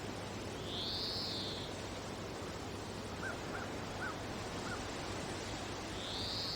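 Bird calls outdoors: two long, high, arching calls, one about a second in and one near the end, with four short faint chirps between them, over a steady hiss.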